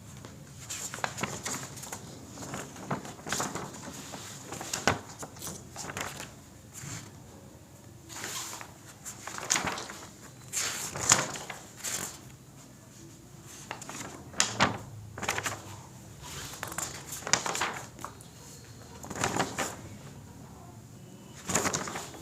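Oil pastel scraping across paper in short, uneven strokes, one or two a second, as an area is coloured in.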